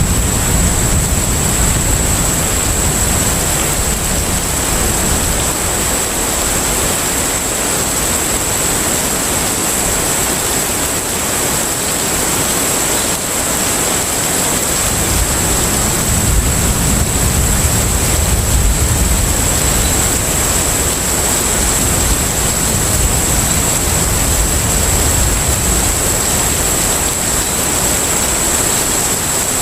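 Container ship at sea: a steady rushing of wind and water over a deep engine rumble, with a thin steady high whine. The rumble fades for several seconds around the middle, then swells back.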